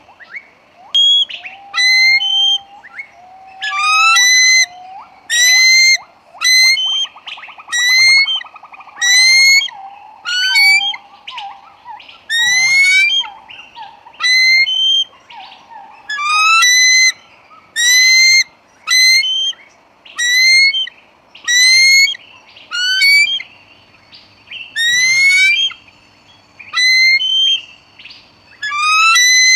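An eagle calling over and over, about once a second: each call a short, loud whistle that slides upward. A lower, wavering tone runs underneath for the first several seconds.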